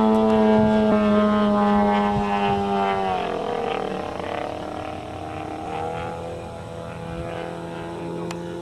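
ZDZ 100 inline-twin two-stroke engine of a large RC P-40 running in flight. About three seconds in its pitch drops as the plane passes, then it carries on at a steadier, lower and quieter tone.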